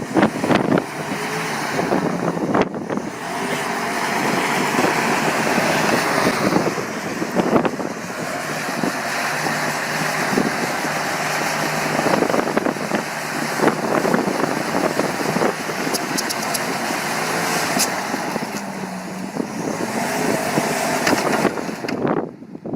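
Motor vehicle engine running steadily, its pitch shifting a little, over a continuous rushing noise, with a few sharp knocks.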